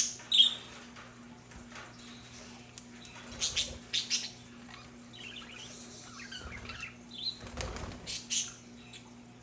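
Budgerigars giving short, scattered chirps and a stretch of soft warbling chatter, with a brief flutter of wings about three quarters of the way through.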